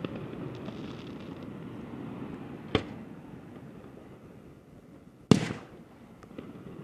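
Fireworks going off: a sharp bang about three seconds in and a louder one a little after five seconds, followed by a short fading tail, with a faint crack just after, over a low steady background rumble.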